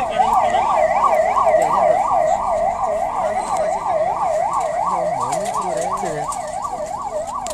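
Emergency vehicle siren in a fast yelp, its pitch sweeping up and down about three times a second. A fainter, lower wavering tone comes in briefly about five seconds in.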